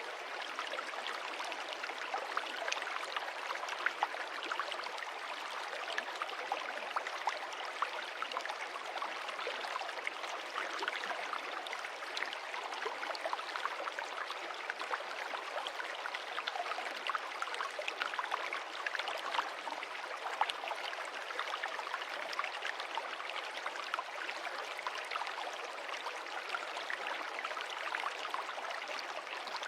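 Stream water running and splashing over stones, a steady rush with many small drips and splashes.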